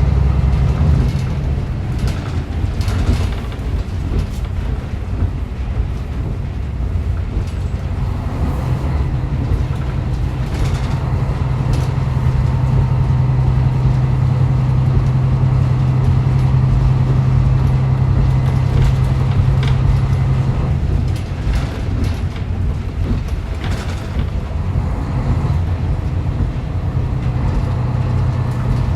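Diesel railcar running, heard from inside the car: a steady low engine drone that strengthens partway through and drops off a little after the middle, as the power is shut off to coast, with intermittent clicks of wheels over rail joints.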